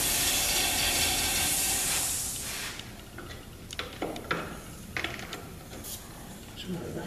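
Electric angle grinder running against the cast-iron flywheel with a steady hiss over its motor hum, stopping about two and a half seconds in. After it, scattered light clicks and knocks of metal being handled.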